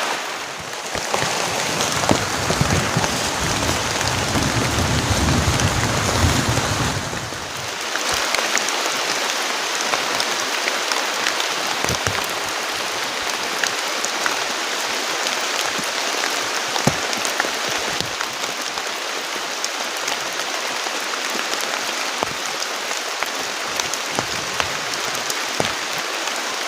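Heavy rain falling steadily, with many close drops pattering. A deeper low rumble sits under it for the first several seconds, then drops away.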